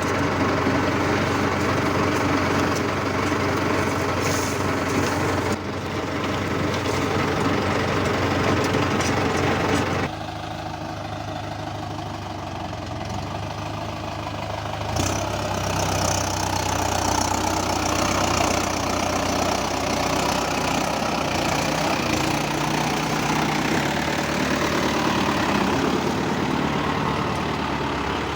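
Mahindra tractor's diesel engine running steadily. It quietens about ten seconds in and picks up again about five seconds later.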